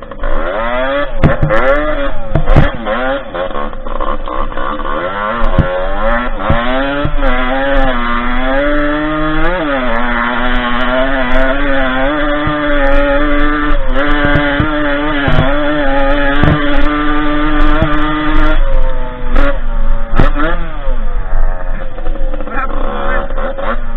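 Derbi 50cc two-stroke engine on a dirt bike under way, revving up and down. Its pitch climbs over the first ten seconds with a brief dip, holds high and steady until about three-quarters through, then drops off and wavers. Scattered sharp knocks throughout.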